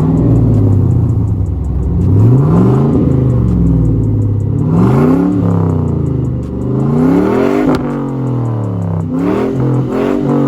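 1998 Camaro Z28's LS1 V8 revved through its new exhaust setup: about four blips of the throttle, the pitch rising and falling back toward idle each time.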